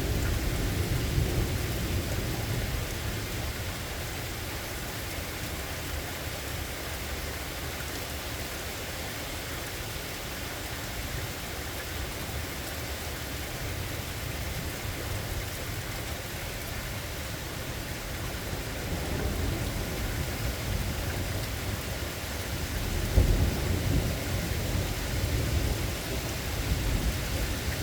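Steady rain falling, with low rolling thunder. A rumble fades in the first couple of seconds, and another builds from about two-thirds of the way in, loudest about 23 seconds in, then rolls on.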